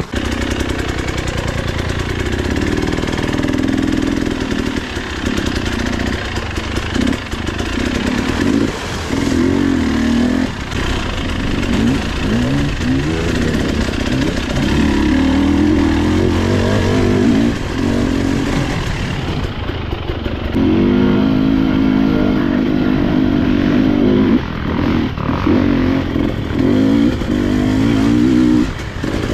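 Husqvarna TE 300i two-stroke enduro bike engine being ridden hard. It revs up and down over and over, with short drops each time the throttle shuts.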